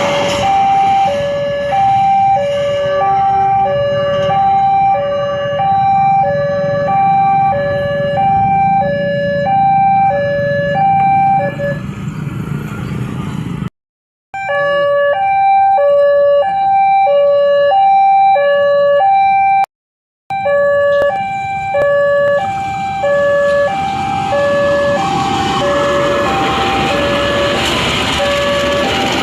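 Level crossing warning alarm sounding, an electronic two-tone signal alternating high and low about once a second, over a low rumble. The alarm warns that a train is approaching or passing the crossing. The sound cuts out completely twice, briefly.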